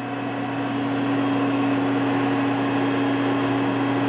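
Hurco KM3-P CNC knee mill running: a steady machine hum with a strong pitched tone, growing louder over about the first second and then holding steady.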